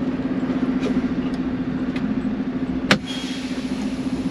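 Semi truck's diesel engine running steadily at low revs, with one sharp click or knock about three seconds in.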